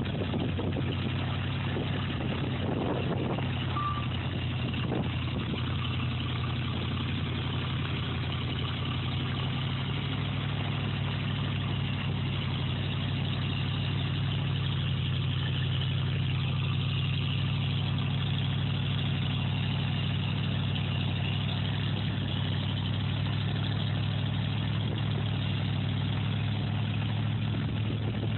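A heavy vehicle's engine running steadily at a low, even pitch, which shifts slightly about ten seconds in.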